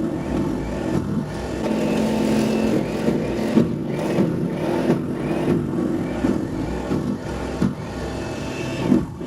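Small gas snowblower engine running steadily under load, with a few short knocks.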